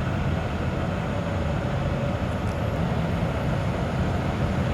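Steady low rumble of vehicle engines running, with no sharp events.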